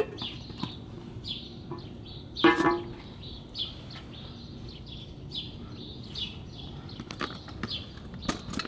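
A small bird chirping over and over, a short chirp every half second or so. About two and a half seconds in comes a louder, brief honk-like pitched sound. There is a click at the very start as the metal lid is pressed onto the grease tin, and a few sharp handling clicks near the end.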